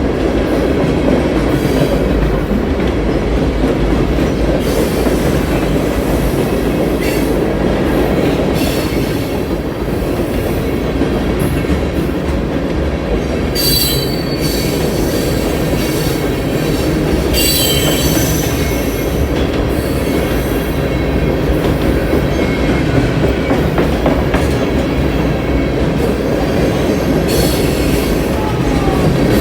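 Union Pacific mixed freight train rolling past, a steady heavy rumble of wheels on rail. Brief high wheel squeals cut in about 14 s in, again a few seconds later, and near the end.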